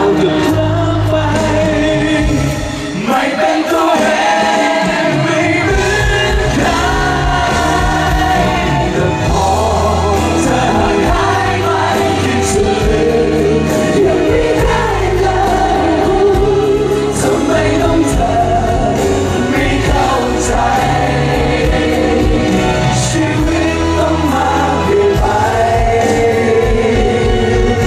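Thai pop song performed live, with several voices singing together over a band with bass and drums. The bass drops out for a couple of seconds a few seconds in, then the full band comes back.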